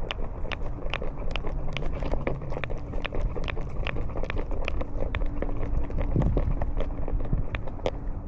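Collar-worn camera on a walking cat: sharp clicks about three times a second, in step with the walk, over a steady rumble of rubbing and handling noise.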